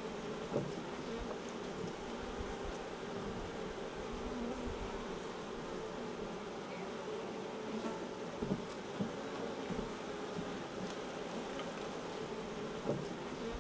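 Honey bees swarming: the steady, dense hum of thousands of bees in the air around an opened wild hive. A few short knocks sound over it, one soon after the start, two more around two-thirds of the way in and one near the end.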